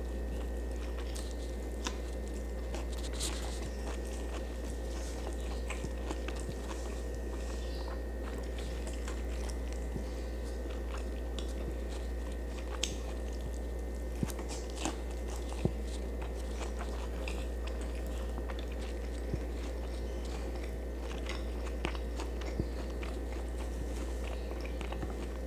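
A person chewing food close to the microphone, with scattered small clicks and crunches, over a steady low hum.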